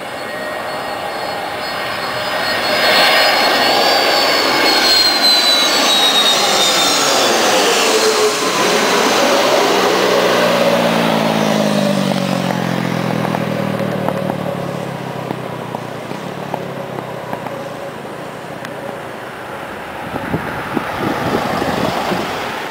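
Airbus A318 jet airliner passing by on landing: its engine whine drops in pitch as it goes past, loudest in the first half, then fades to a steady rumble. A rougher rush of noise comes near the end.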